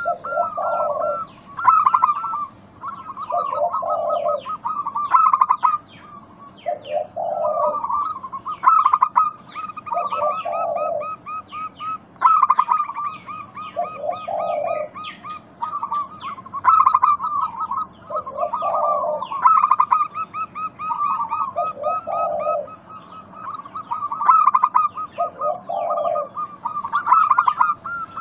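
Zebra doves (perkutut) cooing, several birds overlapping in a continuous chorus. Their rippling, trilled coos are joined by a lower coo that recurs about every two seconds.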